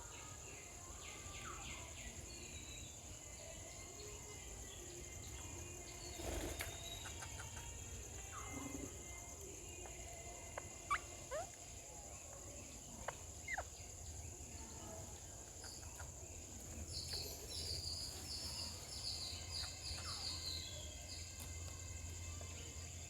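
Outdoor ambience with a steady high-pitched insect drone, broken by scattered sharp bird chirps and, from about 17 seconds in, a run of repeated harsh bird calls.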